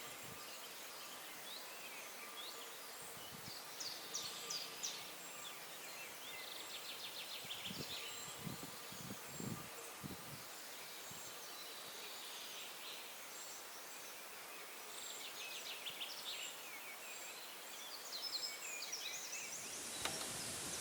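Quiet rural ambience with birds chirping and singing in several short bouts, and a few soft low thuds about eight to ten seconds in.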